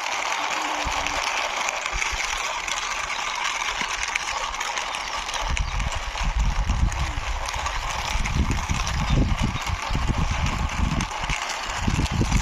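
Toy racing car pushed along by hand: its plastic wheels roll with a steady, fine rattling hiss. About halfway in, irregular low bumps and knocks join it.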